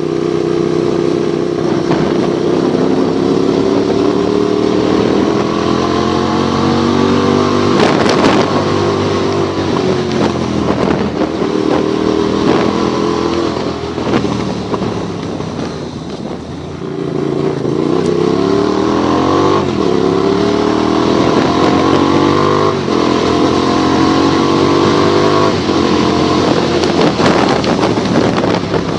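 Motorcycle engine running under way, its pitch climbing and dropping back several times as it accelerates and changes gear. It eases off briefly a little past the middle, then pulls again.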